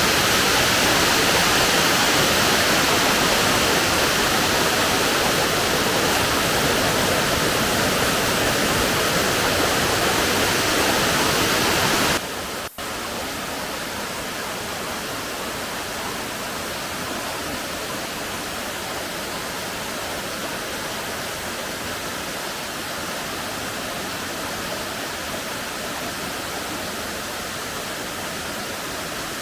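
Waterfall rushing, a steady noise of falling water. About twelve seconds in it drops suddenly to a quieter level after a brief break, then carries on steady.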